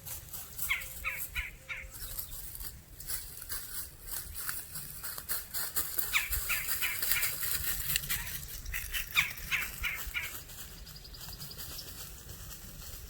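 Birds calling outdoors: several runs of short, harsh, repeated calls, with a thin steady high tone over the last few seconds and a low rumble underneath.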